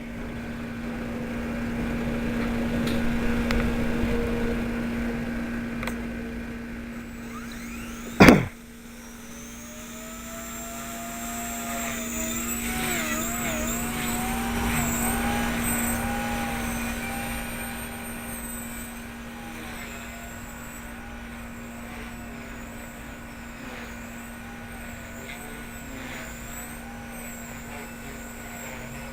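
Blade 130 X electric RC helicopter flying, its motor and rotor whine rising and falling in pitch with throttle changes over a steady hum. A single sharp, loud knock comes about eight seconds in.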